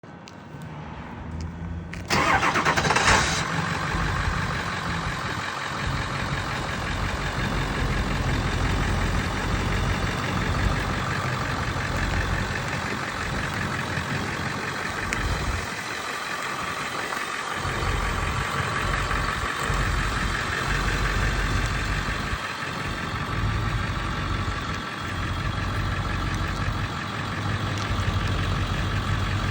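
Ford F550's 7.3-liter turbo-diesel V8 cranking and starting about two seconds in, then idling steadily.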